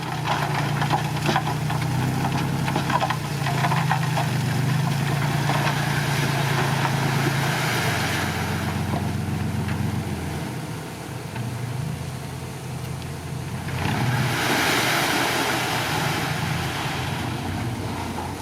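Diesel engine of heavy earthmoving equipment running, its note shifting under changing load about eight to ten seconds in. A louder rush of noise comes in from about fourteen to seventeen seconds.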